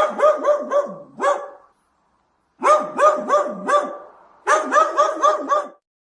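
Dog barking in three quick runs of about five barks each, with short pauses between the runs; the barking stops near the end.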